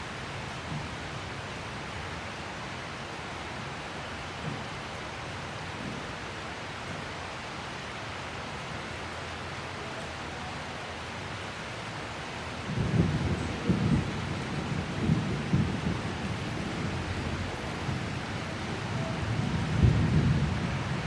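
Steady rain falling, with a long roll of thunder coming in about two-thirds of the way through. The thunder rumbles in several swells and is loudest just before the end.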